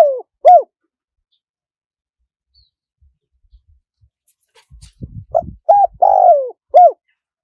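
Spotted dove cooing. The end of one phrase is heard at the start, and about five seconds in comes a full phrase of four coos: two short, one longer falling coo, then a short last one. A few faint low knocks come just before the second phrase.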